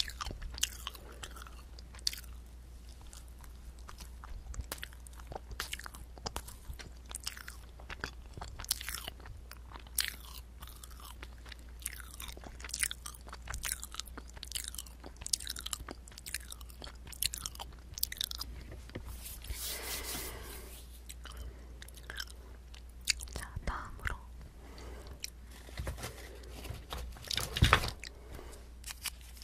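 Close-miked chewing of a small soft dessert: a steady run of wet mouth clicks, smacks and light crunches. There is a longer soft hiss about two-thirds of the way through and a sharp knock near the end.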